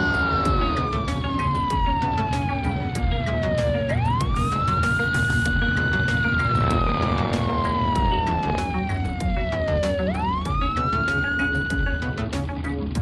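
Slow wailing emergency-vehicle siren over background music with a steady beat. The siren rises quickly, holds its high pitch for about two seconds, then sinks slowly over about four seconds, starting a new rise about four seconds in and again near ten seconds.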